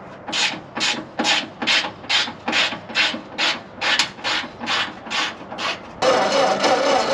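Ford 8N four-cylinder flathead engine being cranked over by its starter without firing: a slow, even chug-chug of compression strokes, about two and a half a second. Near the end the sound switches abruptly to a steady, louder mechanical noise.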